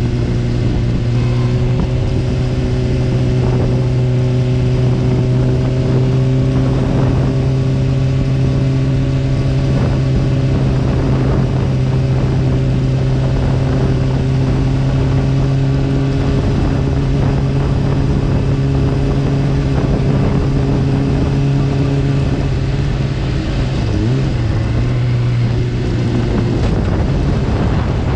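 Honda sportbike engine running at a steady, even pitch while the bike cruises, with wind rushing over the camera. About three-quarters of the way through the note dips briefly, then steadies again.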